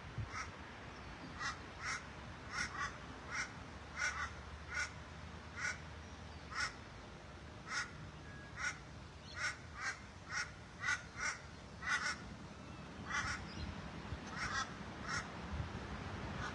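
A bird calling over and over, about twenty short calls at roughly one to two a second, some coming in quick pairs.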